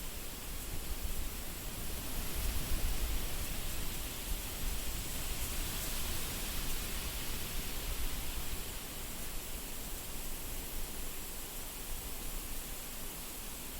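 Wind blowing steadily, gusting up and easing off, with a low rumble of the gusts buffeting the microphone.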